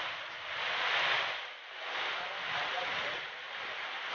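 Heavy rain driven by gusting storm wind: a steady rushing hiss that swells and eases in surges every second or so.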